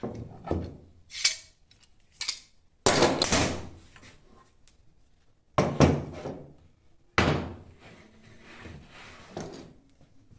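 A series of heavy wooden knocks and thuds, about seven of them, with the loudest three spread through the middle. Each trails off briefly, as the solid-wood fireplace body is shifted about on the workbench.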